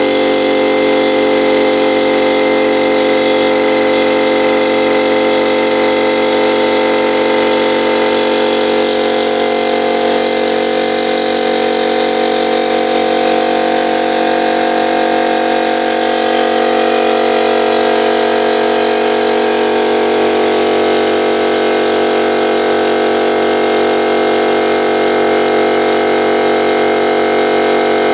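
Einhell BT-AC 230/24 electric piston air compressor running steadily. Its pitch shifts slightly partway through.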